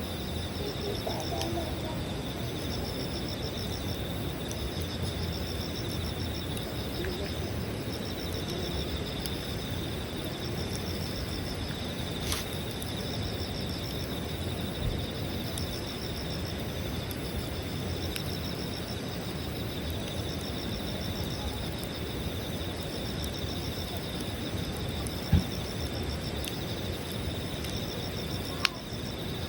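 Insects chirping in a steady, pulsing chorus over a crackling campfire, with a few sharp pops from the burning wood, the loudest near the end.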